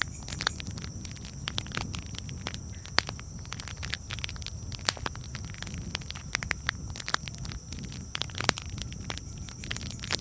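Campfire crackling, with irregular sharp pops and snaps over a steady low rumble of the burning wood. The loudest pops come about 3 seconds and 8.5 seconds in.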